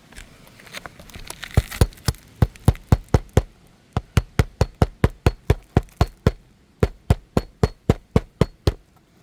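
Hammer driving roofing nails through asphalt shingles: three runs of rapid, sharp blows, about four a second, with brief pauses between nails.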